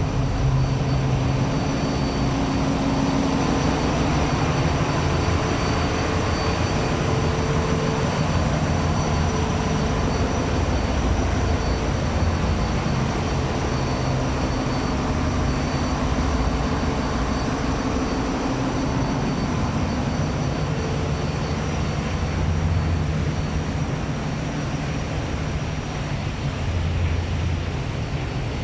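A boat's inboard engine running steadily under way, heard up close in the engine room: a dense, loud, low rumble with a few thin steady high whines above it.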